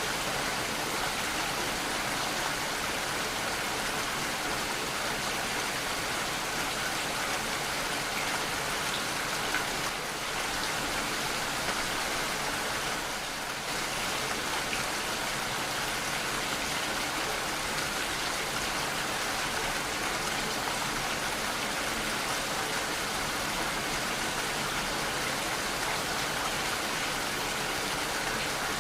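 Steady rainfall, a dense even patter of raindrops on a surface.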